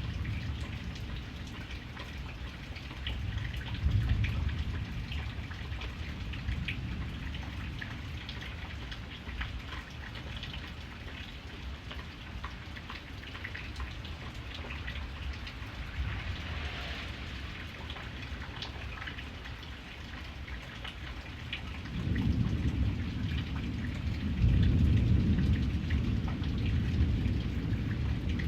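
Steady rain with individual drops heard as short sharp ticks. Low rolling thunder rumbles briefly about four seconds in, then builds again in the last six seconds, where it is loudest.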